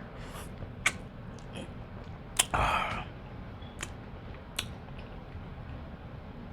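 Close-up eating sounds: chewing, with a few sharp clicks and a louder, wet-sounding burst lasting about half a second about two and a half seconds in.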